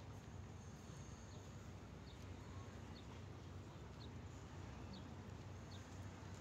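Faint, short bird chirps, about one a second, over a steady low rumble.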